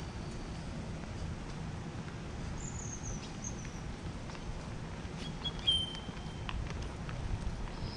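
Outdoor ambience: a steady low rumble of background noise, with a few short, high bird chirps and whistles in the middle.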